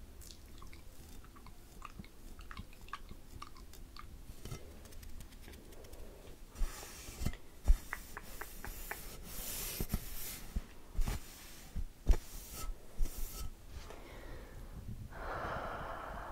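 Close-miked ASMR mouth sounds: soft wet clicks and smacks at first, then from about halfway a run of sharper knocks mixed with breathy puffs and hisses. Near the end there is a steady airy hiss.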